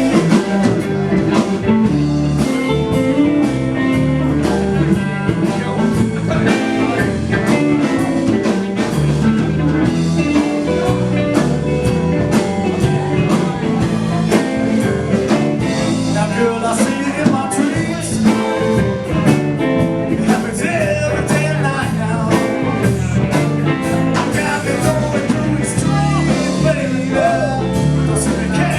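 Live blues band playing, with electric guitar, bass and drums, and a singer's voice in parts.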